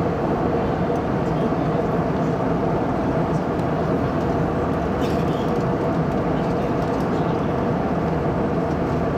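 Steady jet engine and air noise heard inside an airliner cabin: a loud, even rumble and hiss with a constant hum.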